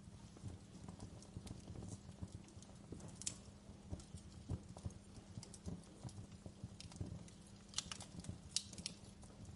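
Wood fire crackling: a low rumble of burning logs under irregular small pops and snaps, with a sharper pop about three seconds in and a cluster of louder snaps near the end.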